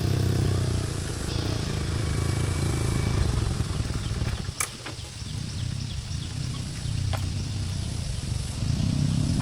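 An engine running steadily, easing off in the middle and picking up again near the end, with a few sharp clicks over it.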